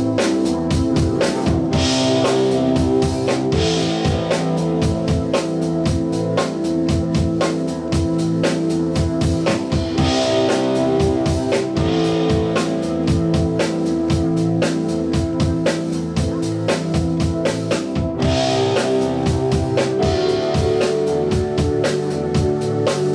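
A live band playing: guitar and other held notes over a steady drum-kit beat, the harmony shifting about ten seconds in and again near eighteen seconds.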